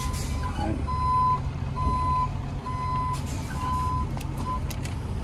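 Vehicle backup alarm beeping about once a second over a truck engine's low running rumble; the beeps stop near the end.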